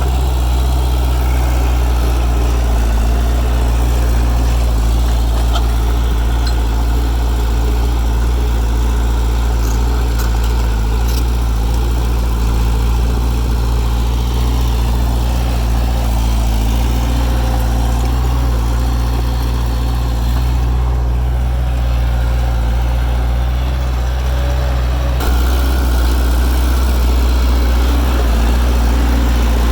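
Heavy diesel engine of earthmoving machinery running steadily with a deep, even drone. It gets slightly louder about 25 seconds in.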